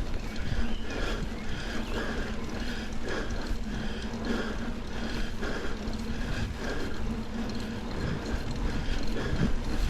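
Mountain bike rolling along a dirt double-track trail: steady tyre and rattle noise with a rhythmic pulse about twice a second.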